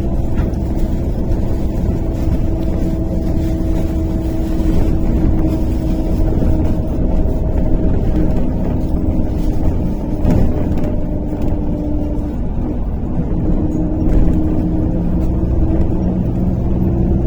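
MAZ-103 city bus driving, heard from inside the passenger cabin: a steady engine and road rumble with a constant whine running through it, which breaks off briefly about two-thirds of the way through.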